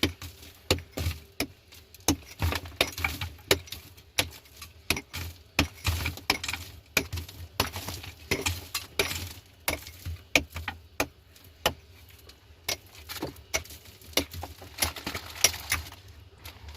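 Irregular clinks and knocks of hard objects being handled, several a second.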